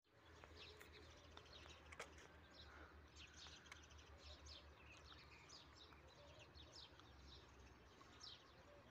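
Faint chirping of small birds: many short, quick chirps scattered throughout, over a quiet background.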